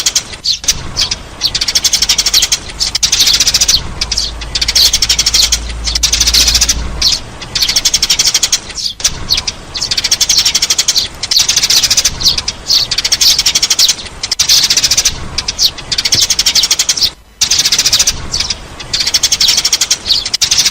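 Brown sparrows chirping in a lure-call recording: fast runs of high chirps, each run a second or two long with short breaks between. A low hum sits under the chirping for a few seconds near the start.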